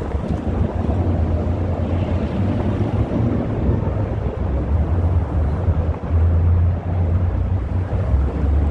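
Car engines running with a steady low exhaust rumble, swelling a little about two thirds of the way through.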